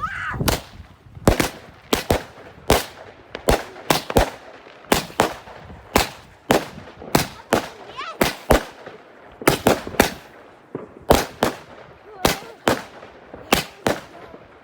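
Fireworks going off in quick succession: a long, unbroken run of sharp bangs, about two to three a second at uneven spacing.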